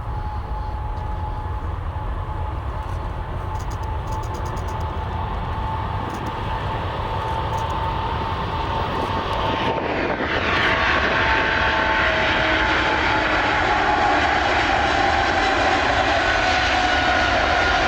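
Airliner engines running near the runway: a steady whine over rushing noise that grows clearly louder and brighter about ten seconds in, its tones slowly falling in pitch.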